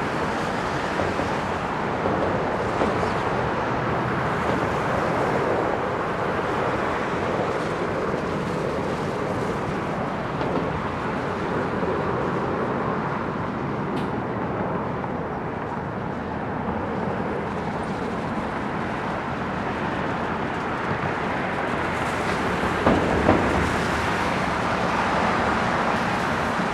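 Steady rumble of wind and distant vehicle noise, with no distinct event.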